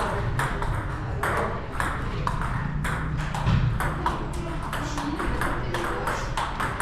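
Table tennis ball clicking off rackets and the table in a quick, steady rally, about three or four sharp hits a second.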